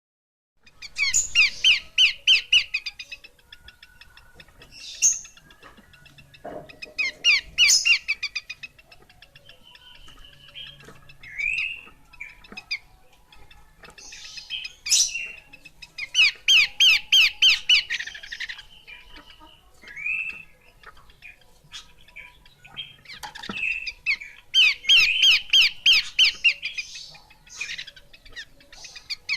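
Pelanduk semak (Horsfield's babbler) calling: four loud bursts of fast, evenly repeated chattering notes, each lasting a second or two, with shorter single whistled notes between them.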